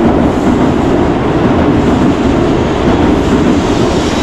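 N700-series Shinkansen bullet train rolling into the station alongside the platform: a steady, loud rumble of the train running on the rails.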